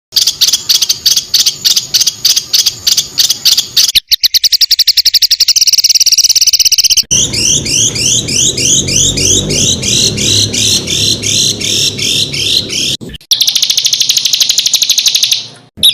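Spliced recordings of songbirds giving rapid, harsh repeated call notes. A quick series of sharp notes comes first, then a very fast trill. Next come rising chirps about three a second, then a buzzing trill, each section cut off abruptly.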